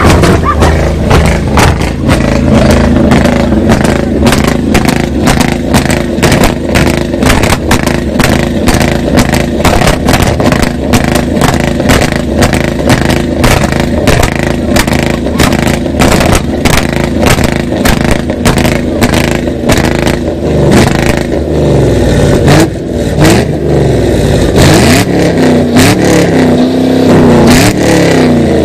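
Several cars revving their engines hard in a rev battle. Engine noise holds steady, broken by frequent sharp pops. From about twenty seconds in, the revs climb and drop again and again.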